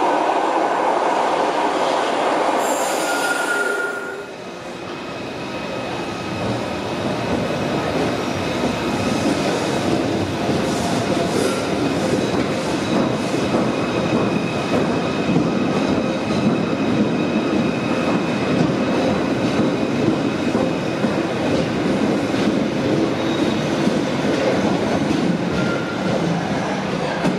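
Merseyrail Class 777 electric trains moving through an underground station. The sound is a steady rumble with thin, high, squealing tones from the wheels. About four seconds in it drops away at a cut, then builds again as another train runs along the platform.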